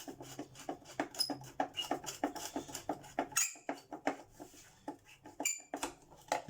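Front cover of a Hoover Junior upright vacuum cleaner being worked and prised off: a quick run of clicks and knocks with a few short squeaks. The cover is stuck and reluctant to come free.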